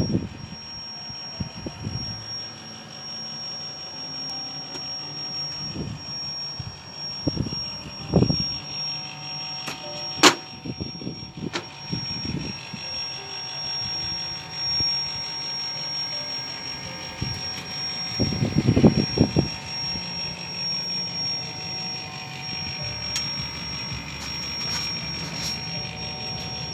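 Ford Kuga making a steady high-pitched whine with irregular low knocks and thuds, a cluster of them about 18 to 19 seconds in and a sharp click about 10 seconds in.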